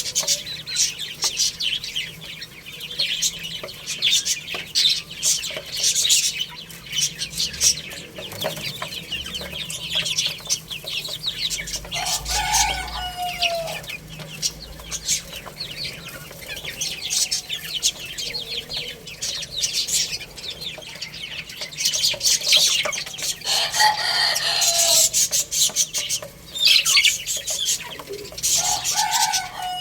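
A group of baby chicks cheeping constantly in quick, high-pitched peeps, with a few lower, falling calls from an adult chicken about a third of the way in, near the end and just before the end.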